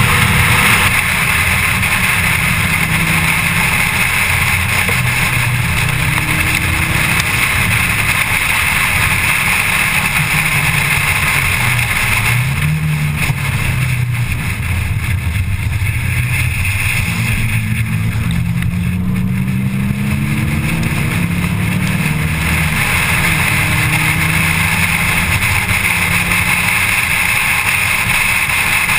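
Onboard sound of a 1987 Audi 4000S race car at speed on track: its engine pulls hard, revs rising and falling through gear changes, under steady wind and road noise.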